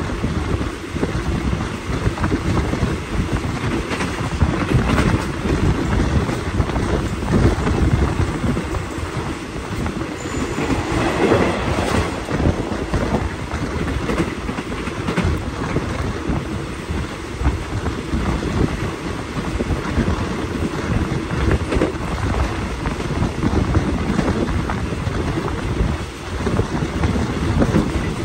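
Passenger train carriage running along the track, heard from its window: a steady rumble of steel wheels on the rails, with clickety-clack from the rail joints.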